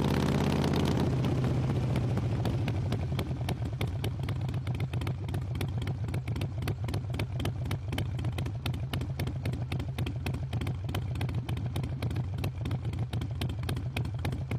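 Harley-Davidson V-twin engine coming down off the ride in the first second or two, then settling into a steady, pulsing idle.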